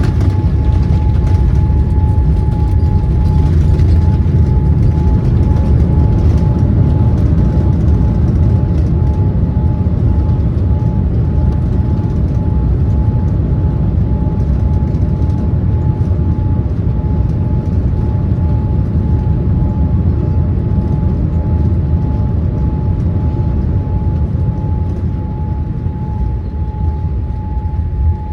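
Loud, steady low rumble heard inside the cabin of a Boeing 787-8 airliner as it rolls out and slows on the runway after landing, with a steady high whine throughout. The rumble eases slightly near the end.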